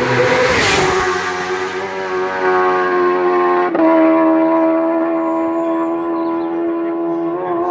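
A racing superbike passes close in a loud burst, its engine note dropping in pitch as it goes by, then holding a steady high-revving tone as it pulls away, with a change in pitch about four seconds in.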